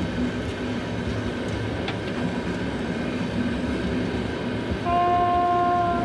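Freight train of hopper wagons behind a 2TE116 diesel locomotive rolling past with a steady low rumble. About five seconds in a locomotive horn sounds one steady blast.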